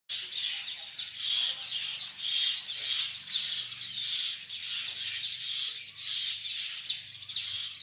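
Small birds chirping rapidly and without a break, a dense chatter of high notes: the agitated calls of birds at a nest under attack by a snake.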